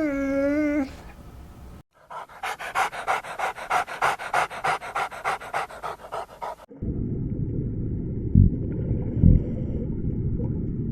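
Dog panting fast, about five breaths a second, for several seconds, after a short pitched animal call at the start. It then cuts to a low rumbling noise with two loud thumps.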